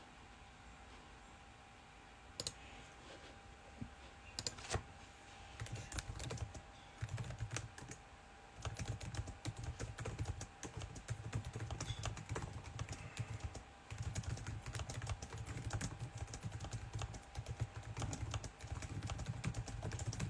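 Typing on a computer keyboard: quick key clicks, scattered at first, then in steady runs with short pauses from about six seconds in.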